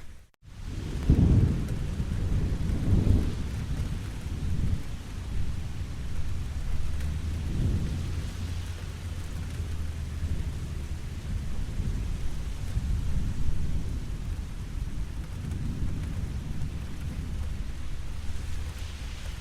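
Steady rainfall with low, rolling thunder rumbles that swell and fade, strongest about one and three seconds in and again near eight seconds. The sound cuts out completely for a split second right at the start.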